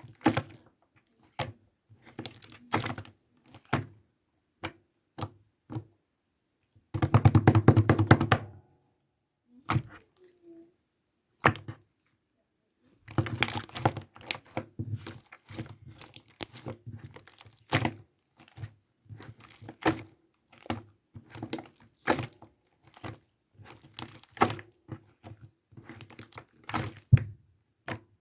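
Irregular taps and clicks, with two runs of rapid clicking, one about seven seconds in and a longer one about thirteen seconds in, and a quiet gap between them.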